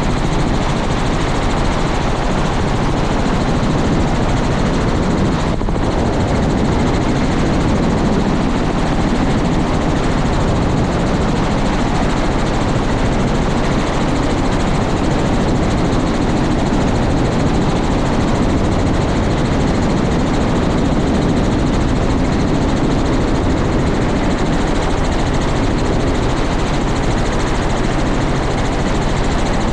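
Helicopter turbine and rotor running steadily and loudly.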